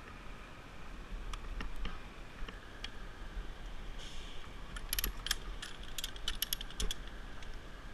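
Scattered small metallic clicks and jingles, as of hardware or tools being handled, bunching into a quick run of clinks about five seconds in, over a low rumble.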